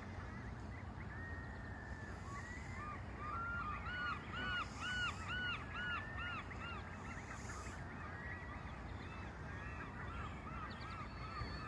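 Geese honking in the distance: a faint run of quick, evenly repeated honks, thickest a few seconds in, with scattered calls around it.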